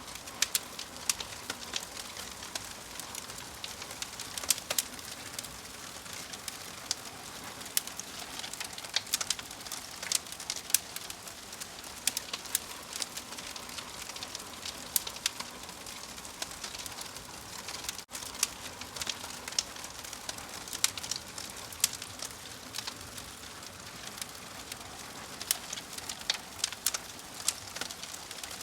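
Wood fire crackling: frequent sharp, irregular pops and snaps over a steady soft hiss, with one split-second dropout about midway.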